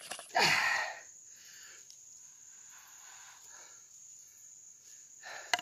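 An insect, cricket-like, trilling steadily on one high note. About half a second in there is a short, loud, noisy sound, and a brief one comes near the end.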